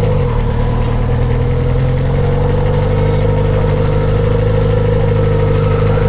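Kawasaki inline-four motorcycle engine running at low revs while riding; its pitch drops just after the start, then holds steady and creeps up slightly towards the end.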